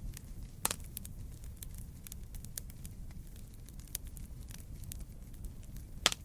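Burning wood crackling: a steady low rumble of the fire under frequent sharp pops and snaps, with two louder pops, one under a second in and one near the end.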